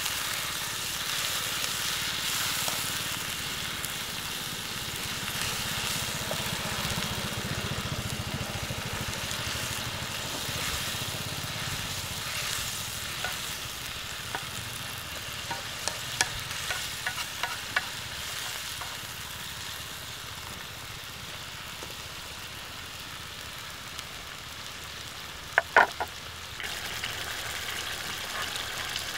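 Onion-tomato curry sizzling in a wok while a wooden spatula stirs and scrapes through it, with scattered light clicks midway. Two sharp knocks a little before the end are the loudest sounds.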